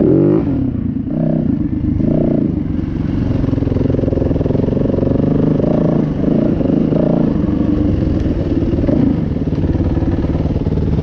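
Dirt bike engine running under way, its pitch climbing and dropping with throttle and gear changes, most sharply in the first half second.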